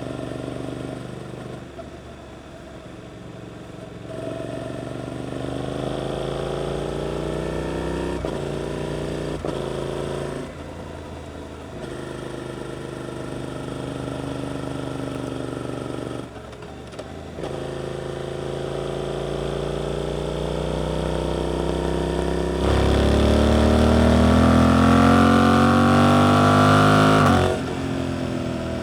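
Suzuki GSX-8S parallel-twin engine through an Arrow aftermarket exhaust, accelerating up through the gears. The revs climb in several rising pulls, with short dips at each gear change. The hardest and loudest pull comes in the last few seconds and cuts off suddenly as the throttle closes.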